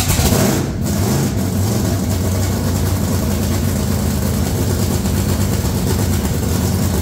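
Freshly rebuilt supercharged burnout-truck engine running steadily at idle, soon after its first start following assembly.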